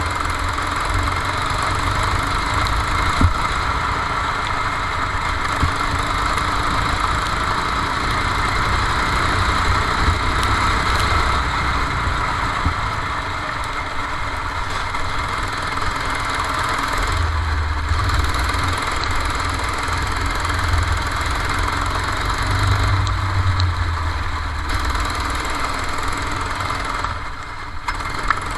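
Go-kart engine running continuously, heard from onboard the kart, with a brief drop in loudness near the end.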